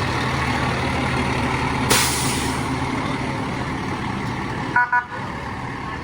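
Heavy truck engine running steadily, with a short sharp burst of air hiss about two seconds in. Near the end come two quick horn toots.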